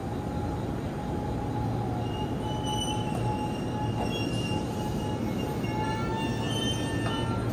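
A JR Central 313 series electric local train pulls into the platform, with a steady low rumble. From about two seconds in, thin high squealing tones at several pitches come and go as it brakes to a stop.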